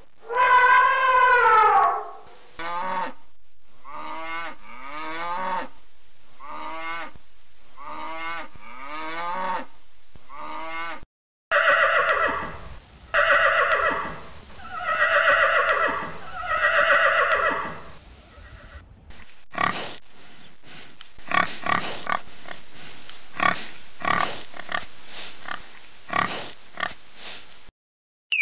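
An African elephant trumpeting, followed by a run of shorter rising-and-falling calls about one a second. Then a horse neighs four times, each call falling in pitch. Then pigs give many short, quick grunts.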